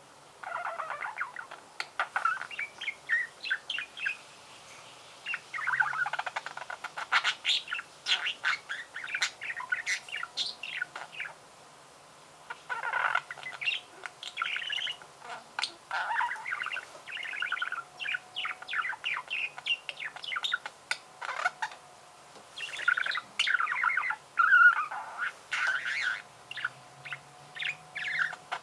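Budgerigar warbling: long runs of rapid chirps, clicks and chattering notes, broken by short pauses.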